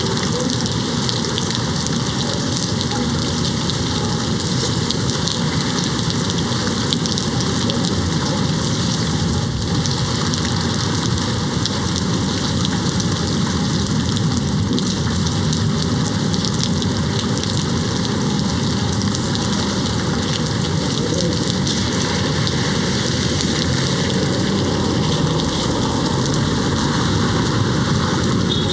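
Steady rain falling against a window pane, a dense, even patter throughout.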